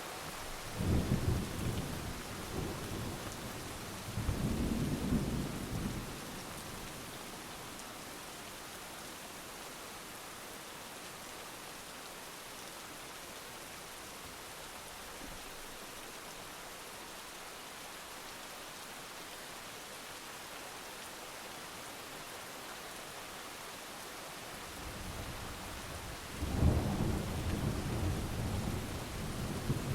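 Steady heavy rain with rolling thunder: two rumbles in the first six seconds, then rain alone, then a longer rumble building up in the last few seconds.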